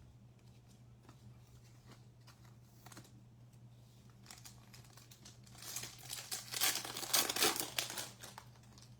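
Foil trading card pack wrapper crinkling as it is torn open, loudest for about three seconds starting five and a half seconds in, after a few faint taps and card handling.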